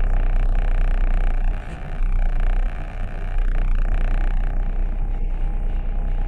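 Steady low vehicle rumble with road noise, dropping briefly about two seconds in.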